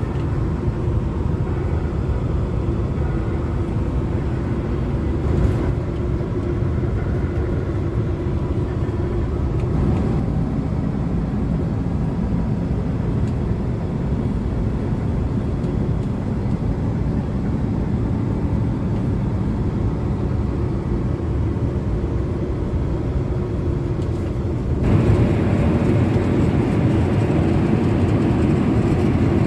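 Steady low cabin rumble of a Boeing 777-300 airliner in cruise. About 25 seconds in it abruptly becomes louder and brighter.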